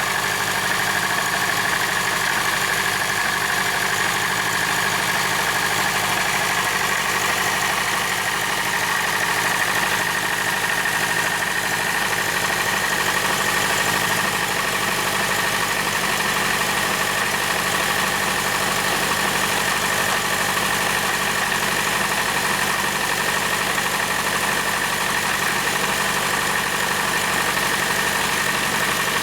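Model engine running steadily, an even mechanical running noise with a steady high-pitched hum and no change in speed.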